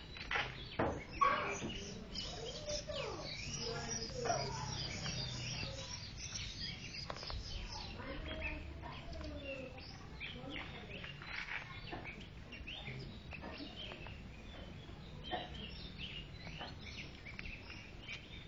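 Birds chirping and calling: many short overlapping chirps and pitch glides, busier in the first half.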